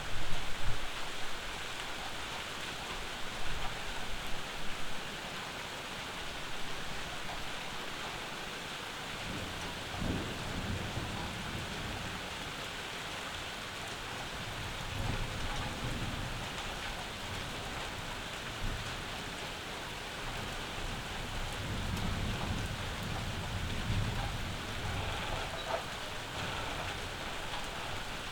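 Steady summer rain falling, with thunder rumbling low several times, the loudest roll right at the start and others about a third of the way in, around the middle and near the end.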